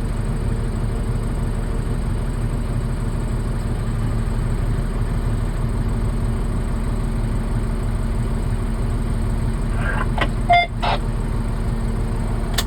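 Steady low rumble of an idling vehicle engine. About ten seconds in comes a short burst of brief radio-like blips.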